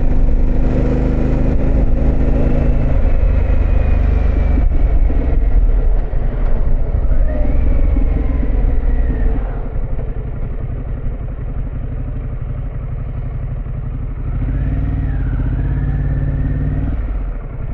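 2024 Harley-Davidson Pan America's Revolution Max 1250 V-twin, fitted with a Vance & Hines exhaust, running under way. It is loud for the first ten seconds or so, then drops to a quieter, lower level, with a brief rise again near the end.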